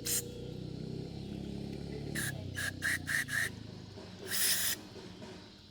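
Aerosol cleaner sprayed in short squirts into a clogged Honda GX200 carburetor: one squirt at the start, five quick ones about two seconds in, then a longer spray about four and a half seconds in.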